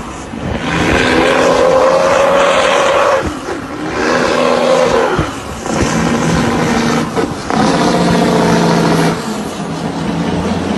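Heavy truck diesel engine revving up and down several times, with short drops in between.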